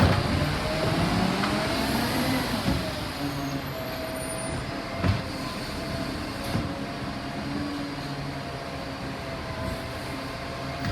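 Garbage truck working a bin pickup: the engine runs steadily under a whining tone that rises and falls, with a few sharp clunks.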